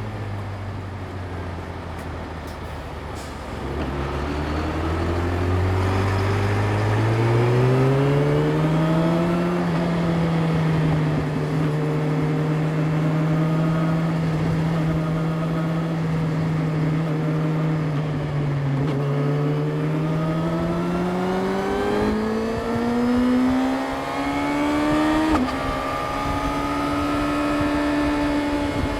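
Yamaha YZF-R6's inline-four engine accelerating on the road. Its note climbs from about four seconds in, holds steady while cruising, then climbs again and changes abruptly at a gear change near the end.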